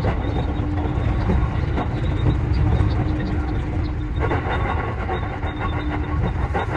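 JR Central 315 series electric train running: a steady rumble with many quick clicks of the wheels over the rails, and a steady hum that drops out and returns.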